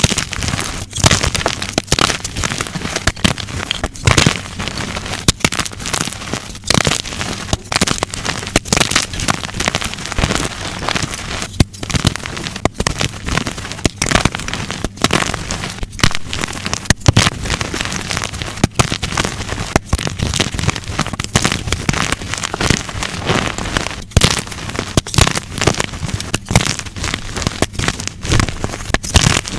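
Blocks of dyed gym chalk being snapped and crushed: dense crunching and crackling with frequent sharp snaps.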